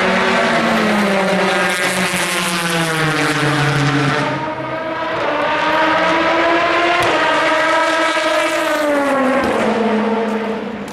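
Race car engines at speed. One engine note falls steadily in pitch and breaks off about four seconds in. Then a second climbs slowly and drops away near the end.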